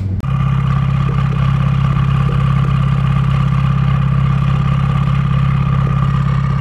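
Straight-piped Ford Focus RS Mk3's 2.3-litre turbocharged four-cylinder running loud at steady raised revs, with no muffler. Its pitch steps up slightly right at the start and then holds.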